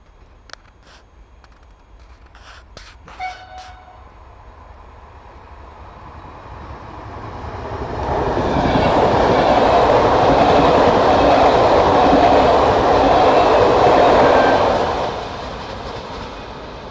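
A train passing at speed, wheels on rail. The rushing, rumbling noise builds over a few seconds, stays loud for about seven seconds, then falls away quickly. A few sharp clicks come in the first few seconds.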